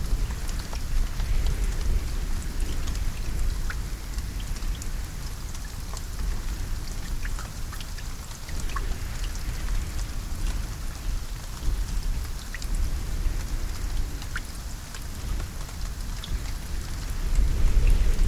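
Steady rain falling, with individual drops ticking against a surface. A low rumble runs underneath and swells near the end.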